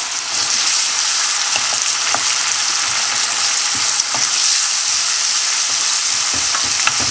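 Onions, garlic and cashews sizzling in hot oil in a non-stick frying pan as a sauce is scraped in and stirred with a wooden spoon: a steady loud hiss with a few light taps of the spoon.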